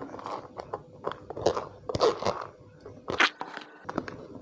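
Instant noodles being mixed with their seasoning and chili oil in a plastic tray: irregular clicks and taps of the utensil against the tray among wet noodle sounds, the sharpest click about three seconds in.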